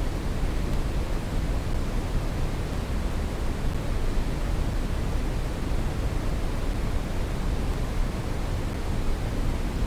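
Steady brown noise: an even, deep rushing hiss, strongest in the bass and fading toward the treble, with no change throughout.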